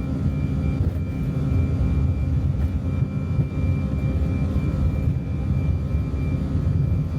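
Airbus A319 cabin noise heard from a passenger seat: a steady low rumble of jet engines and airflow, with a constant faint high tone over it.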